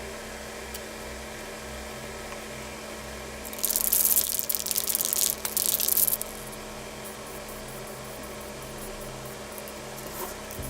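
Aerosol can of high-heat spray paint spraying in two hissing bursts starting about three and a half seconds in, a long one and then a short one after a brief break, over a steady low hum.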